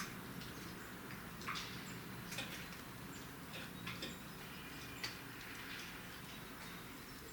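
Eurasian blackbird pecking at bird butter (a suet feed cake), its beak making irregular light taps and clicks every second or so.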